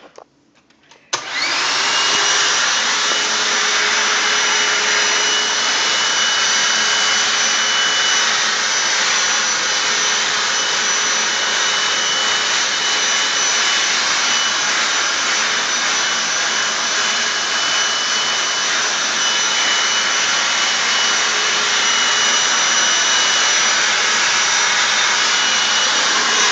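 Hoover WindTunnel Anniversary Edition upright vacuum switching on about a second in: the motor spins up with a rising whine, then runs steadily at full suction.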